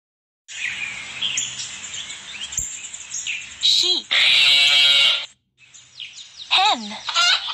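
Many small birds chirping and twittering, with a loud harsh sound cutting in for about a second around the middle and a falling call near the end.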